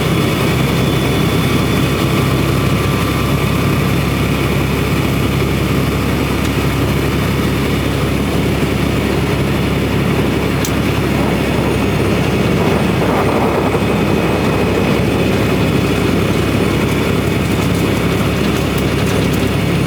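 Cab of a semi truck at highway speed: the diesel engine's steady low drone under road and wind noise.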